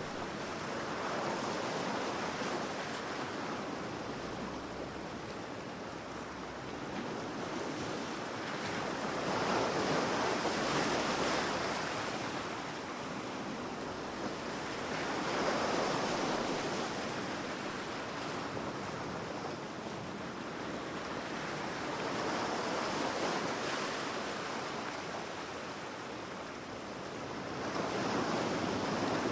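Ocean waves breaking on a beach, the surf swelling and washing back in slow, uneven surges every five or six seconds.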